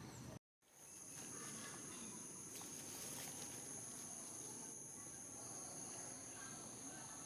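Insects droning in a steady high-pitched chorus of two held tones, after a brief dropout to silence about half a second in.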